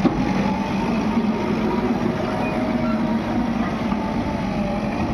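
Diesel engine of a JCB backhoe loader running steadily while loading soil, with a faint whine over the low engine hum.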